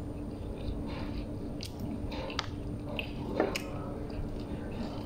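A person chewing a mouthful of Arabic flatbread (khubz) sandwich close to the microphone, with a few scattered short mouth clicks. The sharpest click comes about three and a half seconds in, over a steady low hum.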